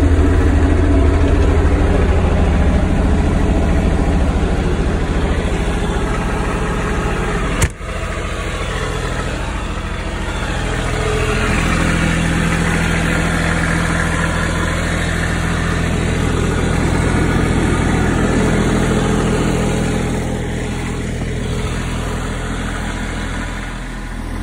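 Toro Groundsmaster 328D diesel engine running steadily just after starting. There is a sharp click about eight seconds in, after which the engine is a little quieter.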